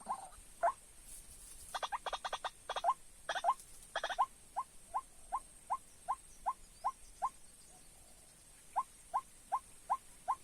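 White-breasted waterhen calling: a quick clattering run of notes, then a long series of short rising 'kook' notes, about two and a half a second. The series breaks off for a second or so and starts again.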